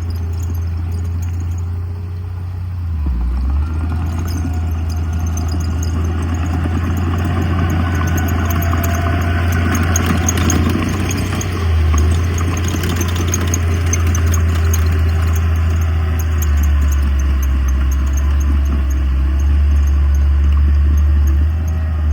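Heavy diesel earthmoving machinery running under load: a deep, steady engine rumble with some clatter on top, growing louder about three seconds in.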